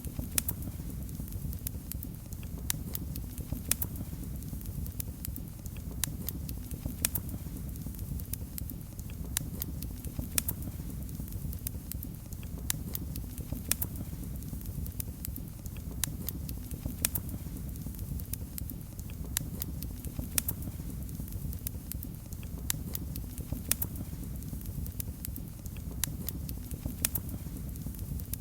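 Wood fire in a fireplace crackling: frequent sharp, irregular pops and snaps over a steady low rumble of the burning fire.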